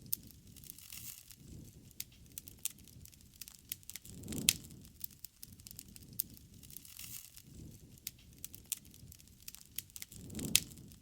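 Wood bonfire crackling, with sharp pops and snaps scattered irregularly. It flares twice, about four seconds in and again near the end, each time with a low rush and a loud snap.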